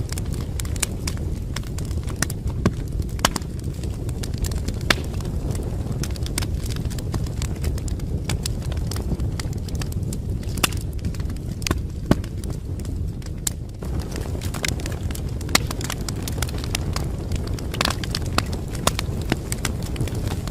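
Wood fire crackling in a fireplace: a steady low rumble of burning with irregular sharp pops and snaps, a few louder ones scattered through.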